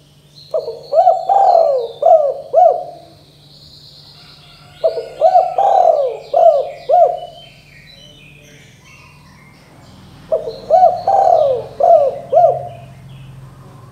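Spotted dove (tekukur) cooing: three phrases a few seconds apart, each a short run of four or five rolling coos. Faint high chirps of small birds sit behind it.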